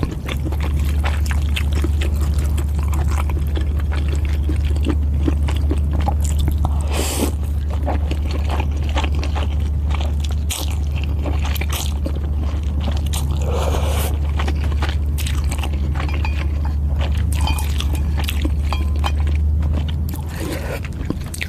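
Close-up eating sounds from a bowl of Thai boat noodles: chewing with many small wet clicks and crunches, over a steady low hum that stops about a second before the end.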